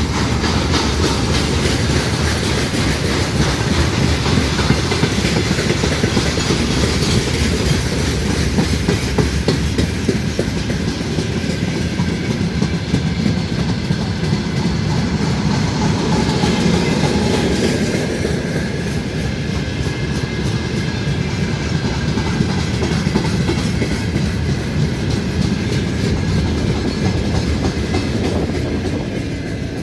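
A train rolling past, its wagon wheels clattering over the rail joints in a steady, loud run that eases a little near the end.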